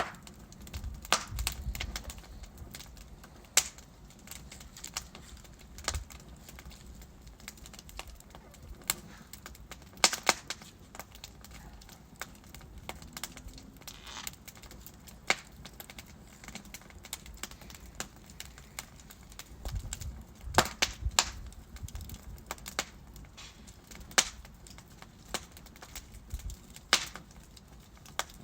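Wood fire burning in a fireplace: irregular crackles and sharp pops from the burning logs, a handful of them much louder snaps, over a faint low rumble of the flames.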